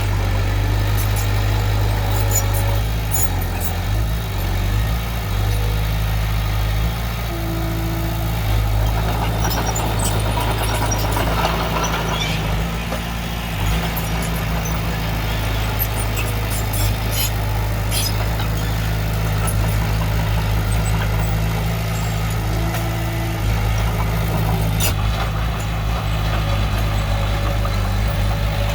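Heavy diesel engine of earthmoving machinery running steadily, its low note shifting slightly a few times, with scattered sharp clicks and knocks over it.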